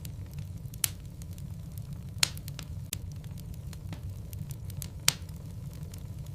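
Wood logs burning in a fireplace: a steady low rumble of flames with scattered crackles, and three sharp pops just under a second, just over two seconds and about five seconds in.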